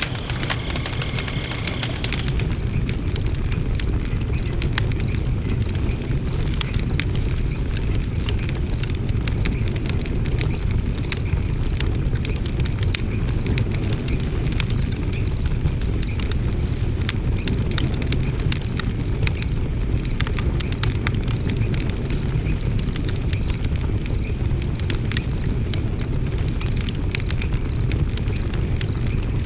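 Wood fire burning in an open fire pit: a steady low rumble of the flames with frequent sharp crackles and pops.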